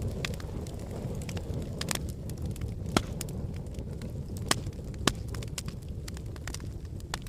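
Wood fire in a fireplace crackling: a steady low rumble of flames with scattered sharp pops, three of them louder, about three, four and a half and five seconds in.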